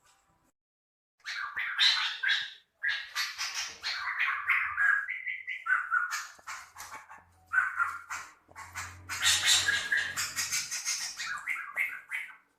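White-rumped shama of the Medan type singing a harsh, rapid string of song phrases. The song starts about a second in and has two short breaks.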